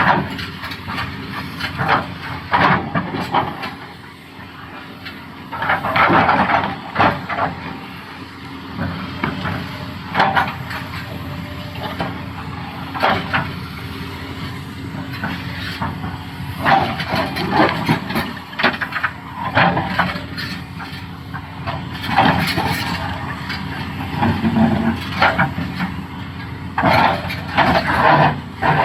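Doosan DX390 excavator's engine running steadily under load while its bucket scrapes and knocks against rock, in bursts every few seconds.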